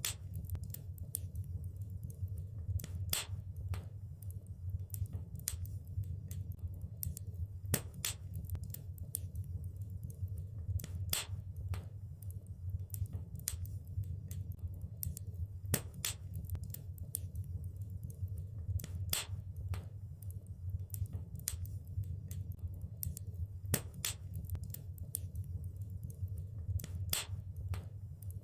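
Wood fire burning in a fireplace: irregular crackles and sharp pops, a few louder ones every few seconds, over a steady low rumble of the flames.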